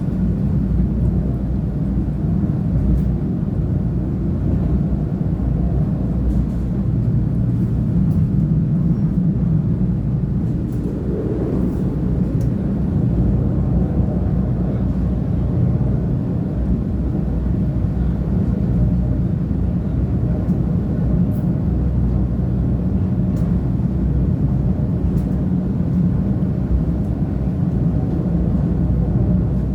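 CP diesel multiple unit UDD 0467 running, heard on board: a steady low drone of the diesel engine and wheels on the rails, with a brief rise about eleven seconds in.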